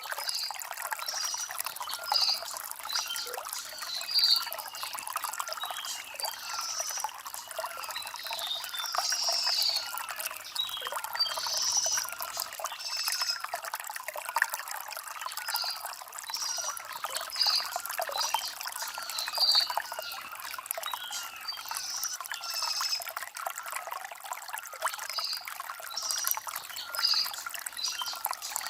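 Shallow stream water trickling and splashing over stones, steady, with birds chirping in short, repeated high calls throughout.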